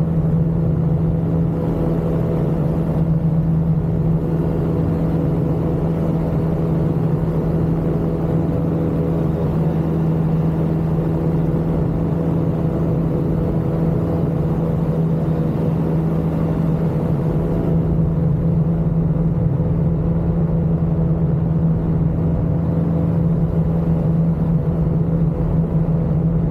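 Ultralight aircraft's engine and propeller running steadily, a loud, even drone that holds one pitch throughout.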